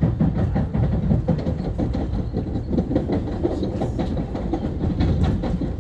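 Long Island Rail Road M3 electric multiple-unit train running, heard from on board: a steady low rumble of wheels on track with frequent clicks and clatter.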